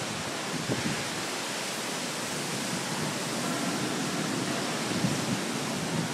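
Thunderstorm downpour with wind: heavy rain pouring and blowing across a concrete deck, a steady rushing hiss with no single loud event.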